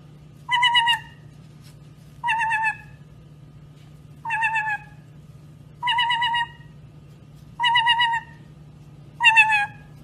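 A bird giving a short, wavering, pitched call six times, about every second and a half to two seconds, over a steady low hum.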